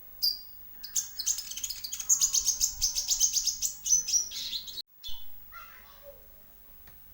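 Konin sunbird song from a lure recording: a rapid, dense run of high, sharp chirps lasting about four seconds, with one lone chirp just before it and softer, scattered calls after a brief cut.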